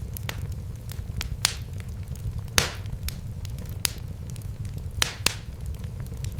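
Fire in a fireplace crackling, with irregular sharp pops over a steady low rumble. The loudest pops come about two and a half seconds in and twice around five seconds in.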